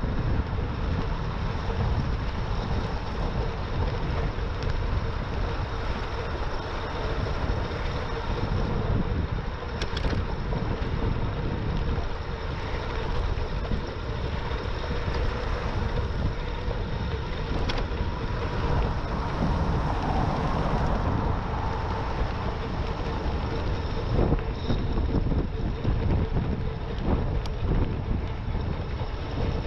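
Wind rushing over a GoPro microphone on a moving e-bike, a steady rumble with a faint constant hum underneath and a few light clicks.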